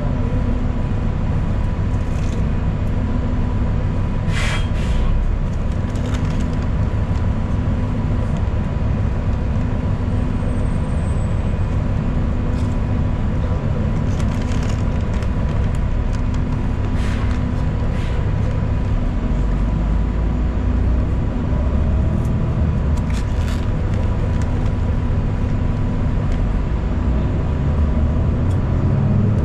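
Inside a moving city transit bus: a steady, loud engine and road drone, with a few brief sharp rattles or squeaks from the cabin.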